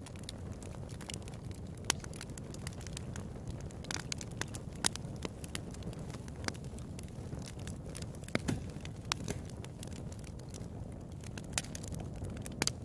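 Fire crackling in a fireplace: a steady low rumble of flame with irregular sharp pops and snaps, a few of them louder.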